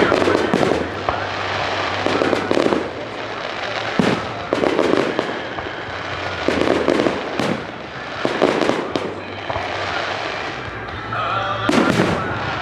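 Fireworks display: about ten sharp bangs from bursting shells at uneven intervals, some in quick pairs and threes, each trailing off briefly.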